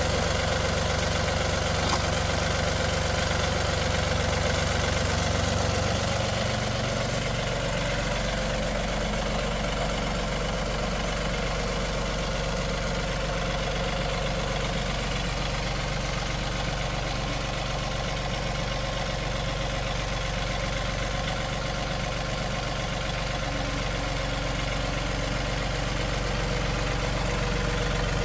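Tractor engine running steadily at a low, even speed; its note changes about six seconds in and then holds steady.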